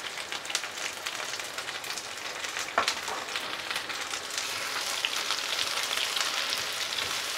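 Soya chunks frying in oil in a nonstick pan: a steady crackling sizzle, with a silicone spatula stirring them. One sharper click comes about three seconds in, and the sizzle grows a little louder after about four seconds.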